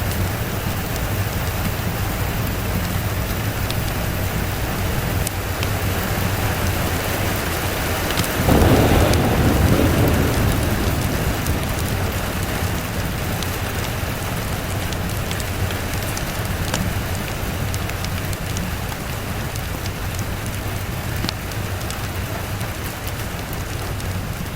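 Steady rain falling, with a single roll of thunder about a third of the way in that swells suddenly and fades away over a few seconds.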